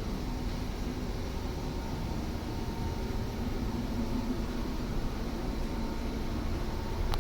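Steady low rumble with a faint continuous hum: the background machinery and wind noise on board a ship at sea.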